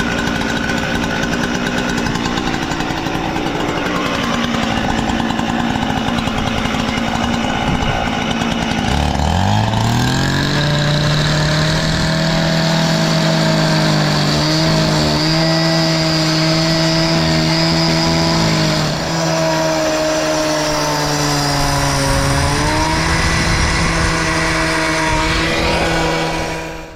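A small engine-driven machine running, revving up about nine seconds in and holding a steady high speed, with its pitch dipping briefly twice.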